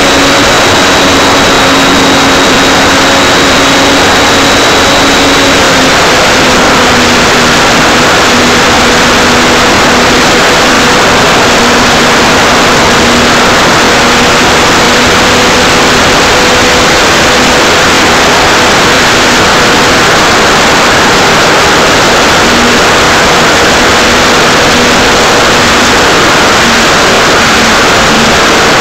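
Electric motor and propeller of an Art-Tech Cessna 182 RC model in flight, heard from a keychain camera on its nose: a steady motor whine under loud rushing wind noise. The whine drops slightly in pitch about six seconds in as the throttle eases.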